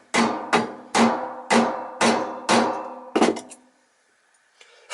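Hammer tapping a metal pulley used as a drift to drive a new ball bearing onto a vacuum-cleaner motor armature shaft: about seven strikes roughly half a second apart, each leaving a metallic ring that dies away, then a pause and one more tap at the end.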